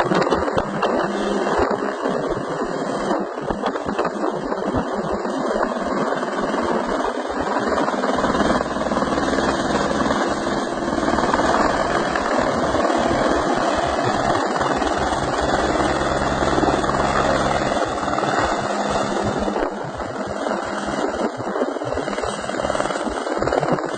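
Helicopter running, a steady rotor and engine noise.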